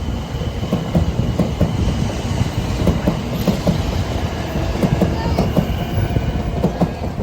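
Doctor Yellow 923 series Shinkansen inspection train pulling out, its wheels clicking quickly and unevenly over rail joints and points under a steady rumble as the cars roll past, with a faint high steady tone above.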